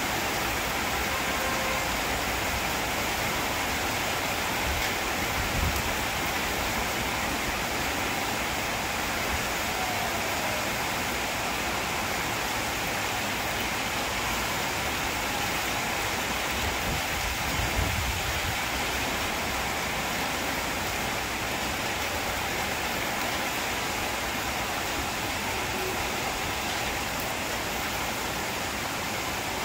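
Heavy rain falling steadily on trees and corrugated metal roofing: a continuous even hiss. Two brief low rumbles come through, about five seconds in and again near eighteen seconds.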